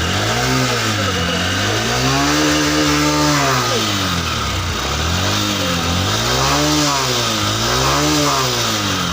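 Honda SP 125 motorcycle's single-cylinder engine revved repeatedly, its pitch rising and falling in about six swells, one held longer about two seconds in, running on freshly changed engine oil.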